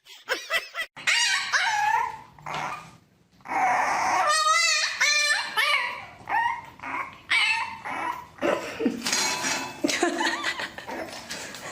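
A dog yipping and whining in a run of short calls that slide in pitch, with a longer wavering call about four seconds in.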